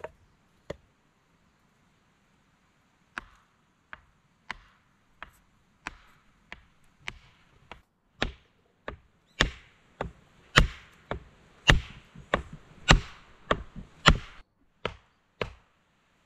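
Chopping into a wooden log by hand, sharp blows at a steady pace of a little under two a second, growing louder from about halfway through.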